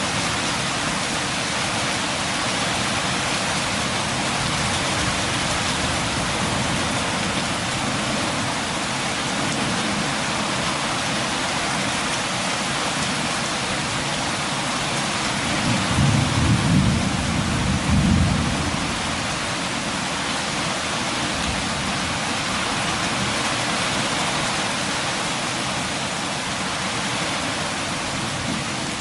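Steady rain, an even hiss of drops falling on surfaces, with a brief low rumble of thunder a little past the middle.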